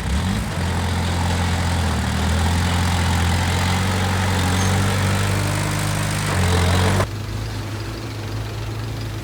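Diesel engine of a heavy construction machine running steadily, rising somewhat in level. About seven seconds in it cuts abruptly to a quieter engine sound.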